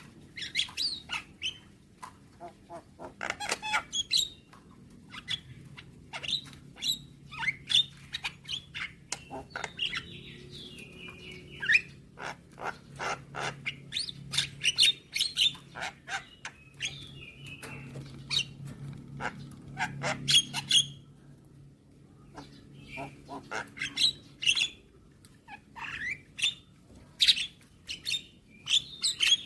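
Javan myna (jalak kebo) calling: a rapid run of harsh chattering notes and clicks, broken by a few short whistled phrases and a brief pause near the middle, over a faint steady low hum.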